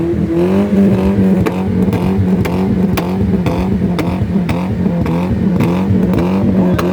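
Car engine revved hard through its exhaust: the revs climb quickly just as the sound begins, then are held high with a regular pulsing about twice a second.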